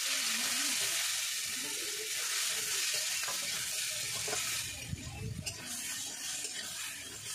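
Sliced onions and tomatoes sizzling in hot oil in a steel kadai while a metal spatula stirs and scrapes them. The sizzle is loudest for the first four to five seconds, then eases off.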